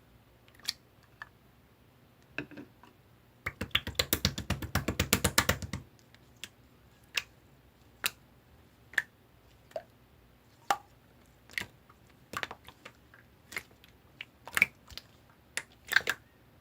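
Clear slime being pressed and worked by hand, giving sharp separate clicks and pops about once a second, with a fast run of clicks from about three and a half to six seconds in.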